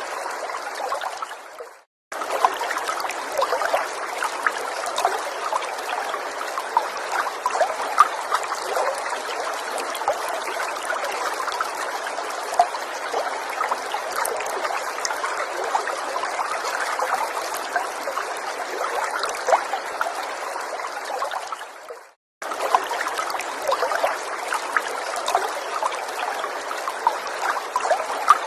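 Small forest stream trickling and babbling steadily, with many small droplet splashes. The sound fades out and drops to silence for a moment about two seconds in, and again about twenty seconds later, each time starting again abruptly.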